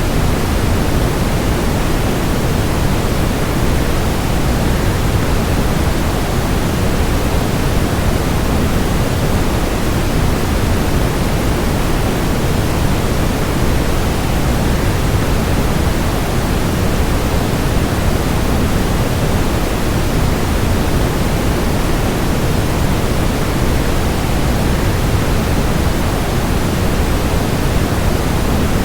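Waterfall white noise: a steady, even rush of falling water, deepest and strongest in the low range, that never changes.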